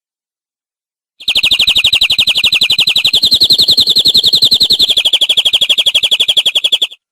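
Domestic canary singing one long, rapid trill of about ten notes a second. It starts suddenly after a second of silence, steps slightly higher in pitch midway, drops back, and stops abruptly just before the end.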